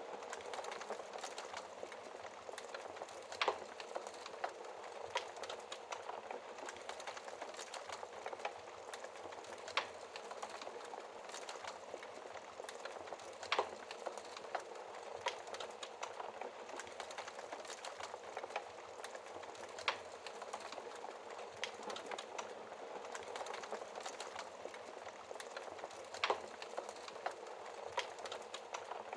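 Wood fire burning in a fireplace: a steady hiss full of small crackles, with a sharp louder pop every few seconds.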